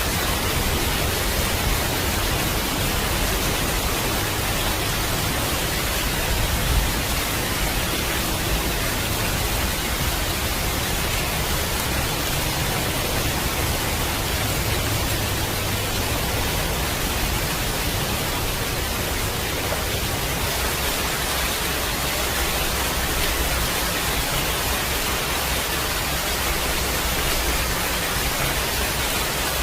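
Steady heavy rain, an even hiss with no breaks, with one brief slightly louder moment about seven seconds in.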